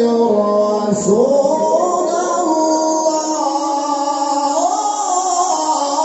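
A male qari's voice holding a long, ornamented melodic line in Quran recitation (tilawah). The pitch slides down and back up about a second in, then wavers slowly.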